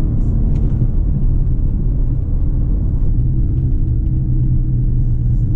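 2020 Subaru Outback XT's turbocharged 2.4-litre flat-four engine running steadily while driving, heard from inside the cabin over a low road rumble.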